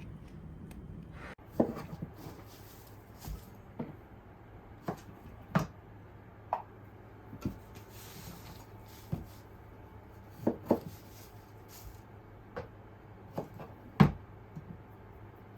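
Irregular knocks and clunks of things being handled and set down, about fifteen in all, the loudest about a second and a half in and near the end, over a faint steady low hum.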